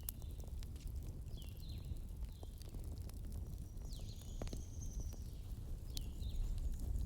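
Wood fire crackling, with scattered sharp pops over a low steady rumble. Short high chirping sounds come now and then, with one longer high whistle about two-thirds of the way in.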